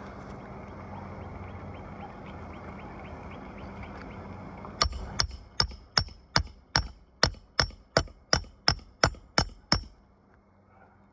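A hammer striking a nail about fourteen times at a steady pace, roughly two and a half blows a second, each blow with a short metallic ring. Before the hammering there is a steady rush of background noise.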